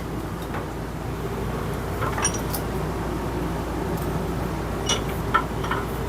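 A steady low hum, with a few short, light clicks and taps scattered through it.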